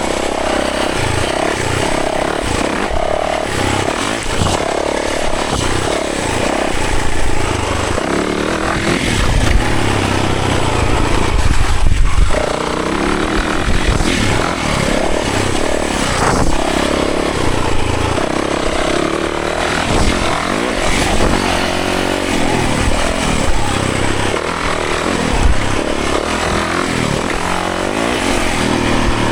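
Yamaha 450 dirt bike's four-stroke single-cylinder engine running under load on a trail ride, the revs rising and falling continually as the throttle opens and closes, loudest a little before halfway through.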